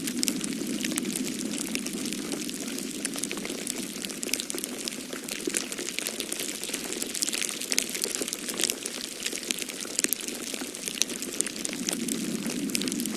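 Wood fire crackling in a fireplace, a steady stream of small sharp pops and snaps, over the low steady rush of a snowstorm's wind.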